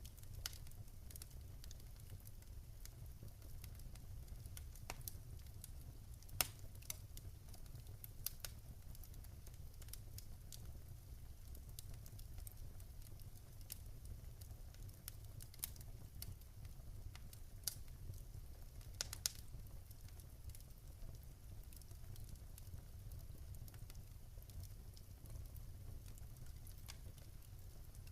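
Wood fire crackling in a fireplace: scattered sharp pops and snaps at irregular intervals, the loudest about six seconds in and a cluster around nineteen seconds, over a low steady rumble.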